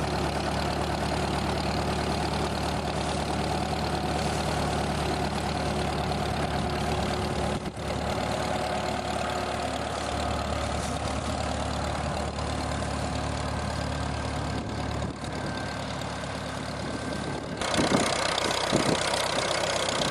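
Tractor engine running steadily. The sound changes abruptly about eight seconds in and again near the end, where a few knocks are heard.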